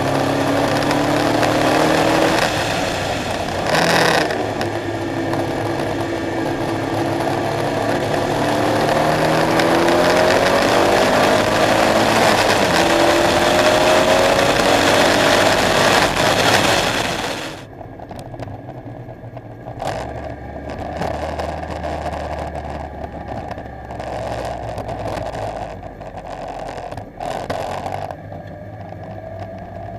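KTM X-Bow engine pulling hard, its pitch climbing and falling through the gears, with a sharp crack about four seconds in. About seventeen seconds in the engine note drops away suddenly, and it runs on quietly at low revs with a couple of clicks.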